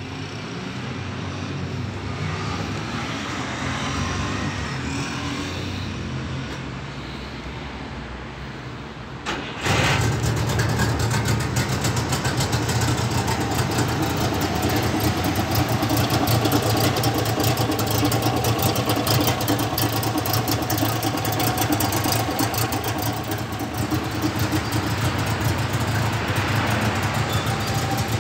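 The DKW-Vemag Candango's three-cylinder two-stroke engine running at idle. It becomes much louder and more rattly about ten seconds in, with a fast, even beat that stays steady; before that there is a quieter sound that rises and falls.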